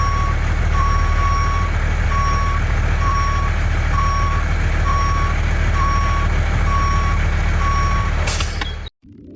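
Truck reversing alarm beeping at an even rate, a bit over one beep a second, over a steady engine rumble. Both cut off suddenly near the end.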